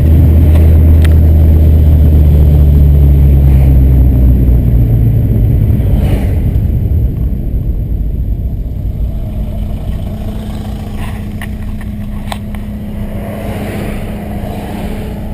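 Volkswagen AP 2000 2.0-litre four-cylinder engine of a VW Santana driving along, loud and deep for the first few seconds, then easing off from about five seconds in and settling into a quieter, steady drone.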